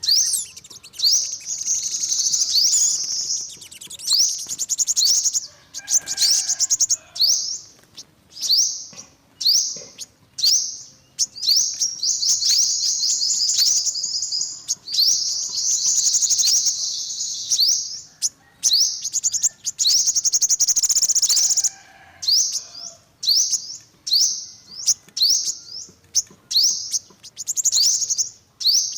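Yellow-bellied sunbird singing: rapid, high-pitched chirping trills in bursts of one to a few seconds, separated by short pauses.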